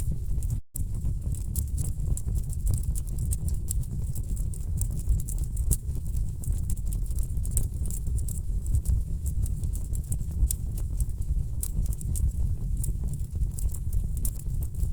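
Wood fire crackling, with frequent sharp pops and snaps over a low steady rumble of burning logs. The sound cuts out for an instant just under a second in.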